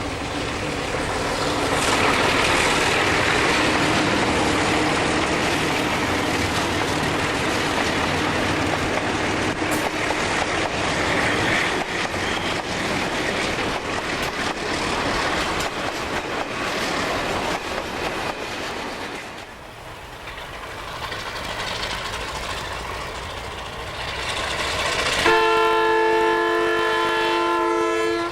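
Diesel locomotive working a freight train past, with steady engine and wheel noise that dips about two-thirds of the way through and then builds again. Near the end its horn sounds one held chord of several notes for about three seconds.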